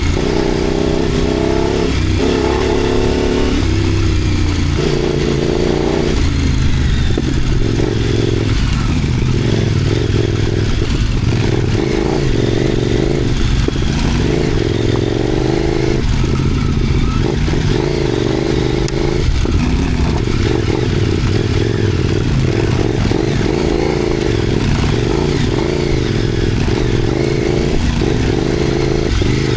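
Motorcycle engine running while riding, its note rising and falling with the throttle, over a steady rush of noise.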